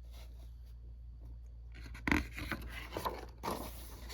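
Paper scraping and rustling as a picture book's page is turned, once about two seconds in and again, longer, around three seconds in, over a steady low hum.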